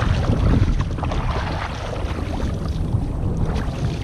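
Wind buffeting the microphone, with kayak paddles dipping and splashing in the water.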